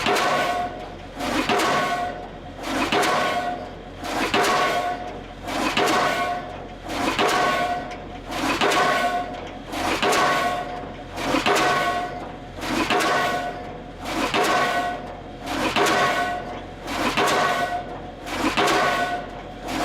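Diesel pile hammer driving a steel H pile: a steady run of heavy blows, about one every one and a half seconds, each with a metallic ring that fades before the next blow.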